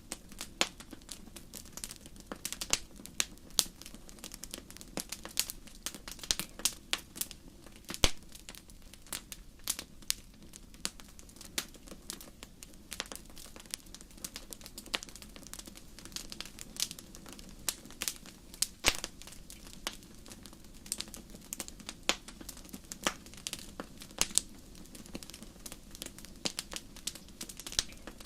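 Wood fire burning in a fireplace, crackling with irregular sharp pops and snaps over a low steady rumble of the flames. The loudest pop comes about eight seconds in.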